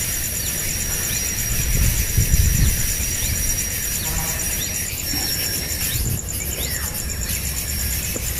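Outdoor nature sound: a steady, fast-pulsing high insect trill like crickets, with scattered short falling chirps and a low rumble of wind on the microphone.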